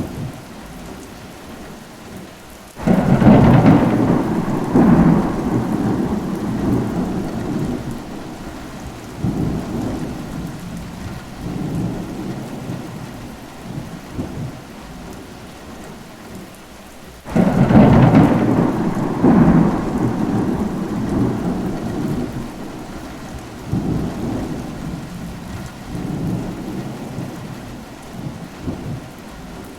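Steady rain in a thunderstorm, with two rolls of thunder. Each starts suddenly, one about three seconds in and one about seventeen seconds in, and rumbles on in fading swells for several seconds.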